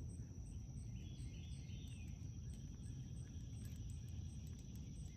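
Outdoor ambience over open water: a steady high insect drone with a few faint bird chirps between one and two seconds in, over a low rumble.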